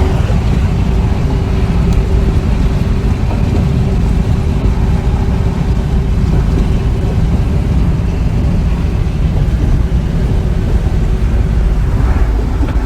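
Box truck on the road: a steady low rumble of engine and road noise with a steady mid-pitched hum. It cuts in and cuts out abruptly.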